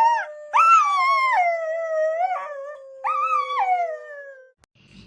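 Dogs howling on request: one long howl sinks slowly in pitch while a higher howl joins it in three rising-and-falling phrases. Both stop about four and a half seconds in.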